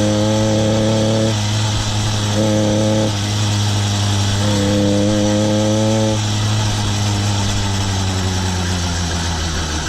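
Small engine of a motorised bicycle running on light throttle while still cold, warming up. It runs steadily, with a stronger, higher tone coming in three times and cutting off abruptly.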